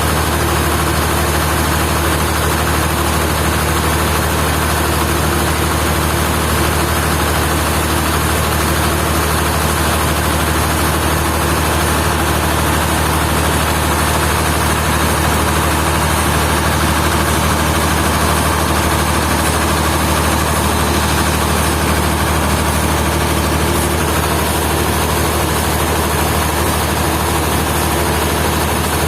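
Sawmill machinery running at a steady pace, a constant loud engine drone with a low hum.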